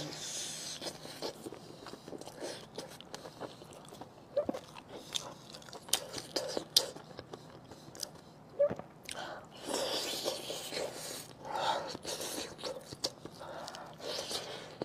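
Close-miked wet chewing and biting of spicy braised pork large intestine stuffed with pig brain, with many short smacking clicks of the mouth. Two denser stretches of wet, sticky noise come about ten seconds in and again near the end.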